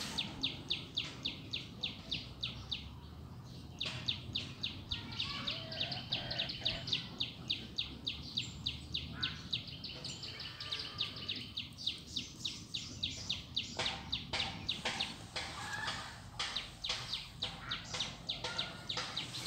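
A bird calling with a fast, even series of short, high chirps, about four or five a second, breaking off briefly about four seconds in, over a steady low background hum.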